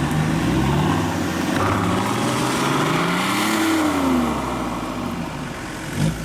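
Off-road 4x4's engine revving, rising in pitch for about three seconds and then dropping back, with a short thump near the end.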